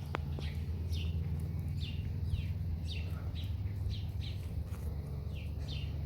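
A bird chirping over and over: short high chirps that slide downward, about two a second, over a steady low hum.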